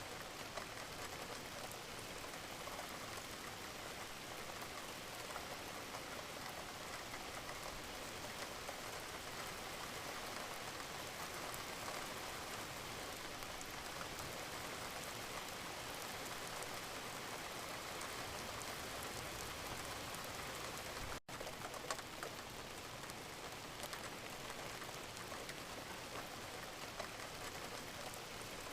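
Steady gentle rain with many small drop taps. The sound cuts out for a split second about two-thirds of the way through, then carries on.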